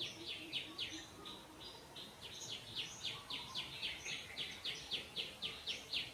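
A bird calling in a fast, even series of short notes that slide down in pitch, about four a second, with a brief pause about a second in.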